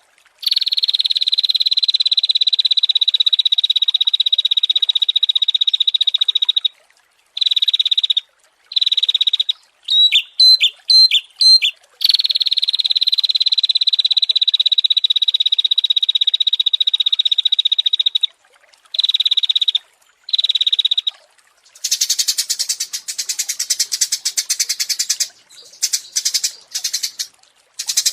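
Songs of small songbirds in a training compilation. Long, steady, high buzzing trills stop and start abruptly, with a burst of quick repeated notes near the middle. A harsher rattling chatter fills the last part.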